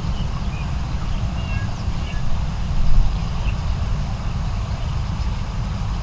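Steady low outdoor rumble, swelling briefly about halfway through, with small birds chirping faintly in the first couple of seconds.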